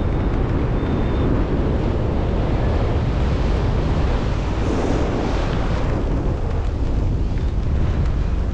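Wind buffeting the microphone: a steady, dense rumbling rush, with a brighter hiss swelling about five seconds in.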